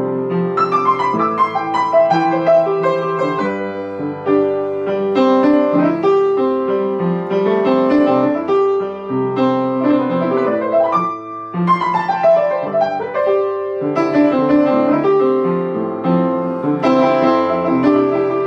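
Solo piano instrumental break within a song: chords in the left hand under a right-hand melody, with descending runs of notes about a second in and again about two-thirds of the way through.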